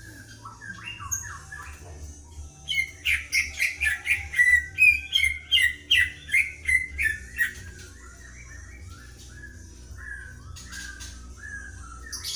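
Greater green leafbird (cucak ijo) and white-rumped shama (murai medan) singing back and forth. A loud run of sharp, rapidly repeated whistled notes starts about three seconds in and stops about halfway through, with softer chirps and trills before and after.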